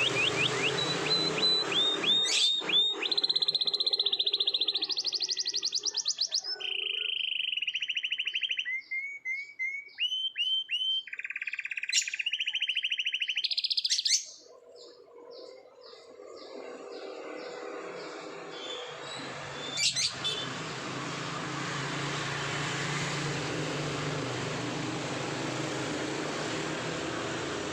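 Domestic canary singing a long rolled song: a run of rapid trills and rolls, each phrase a fast-repeated note held for a second or two at a different pitch. The song stops about halfway through, leaving a steady background rush with one sharp click.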